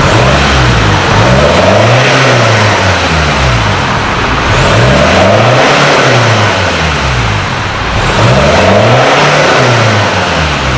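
Ford Ranger 2.2 four-cylinder diesel with a full aftermarket stainless exhaust, revved three times. Each time the exhaust note climbs in pitch and falls back, about every three and a half seconds.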